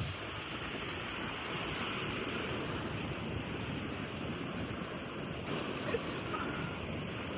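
Steady wash of ocean surf mixed with wind buffeting the microphone.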